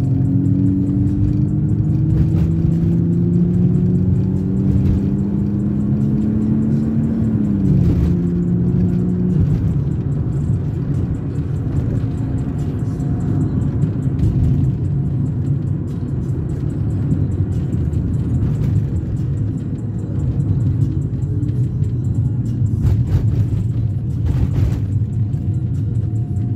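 BMW E36 320i's 2.0-litre straight-six heard from inside the cabin, pulling steadily up through a gear, then dropping in pitch at an upshift about 8 seconds in and running steadily at cruise. Music plays alongside.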